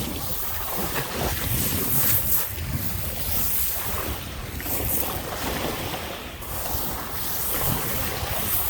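Lake waves washing onto the shore in surges, with wind rumbling on the microphone.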